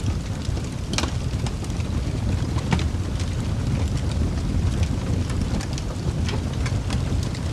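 Wood fire burning in a fireplace: a steady low rumble with sharp crackles and pops at irregular intervals, a couple of them louder, about one and three seconds in.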